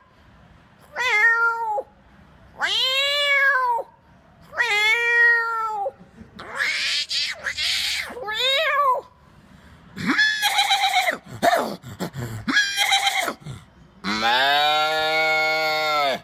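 A man imitating animal calls with his voice: three arching, meow-like cat imitations, then a run of rougher, shorter calls, and near the end one long, steady, lower call.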